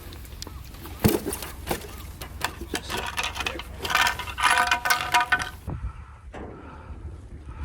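Metallic clinking and sharp clicks, with some ringing metal tones in the middle, over a steady low hum.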